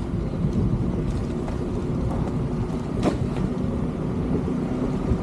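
A car driving, with a steady low engine and road rumble under a faint hum, and one short knock about three seconds in.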